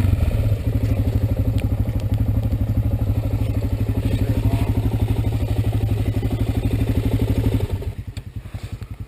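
Single-cylinder ATV engine running with a fast, even exhaust pulse, then dropping back to a quieter idle about eight seconds in.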